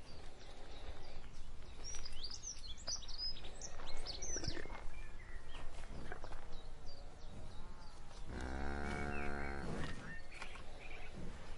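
A cow lowing: one long moo of about a second and a half, a little past two-thirds of the way through. It sits over a steady outdoor background, with short high bird calls a few seconds in.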